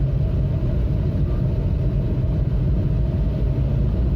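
Steady engine and road rumble of a vehicle driving at an even speed on the highway, heard from inside the cab.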